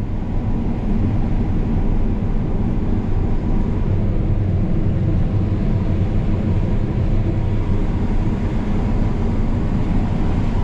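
Combine harvester running steadily while shelling corn: a constant low engine and machinery drone.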